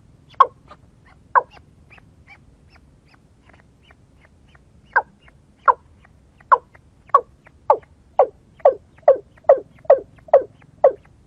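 White-breasted waterhen (kareo) calling, a repeated series of short harsh notes: a few at the start, then from about halfway a steady run that quickens to about two calls a second near the end.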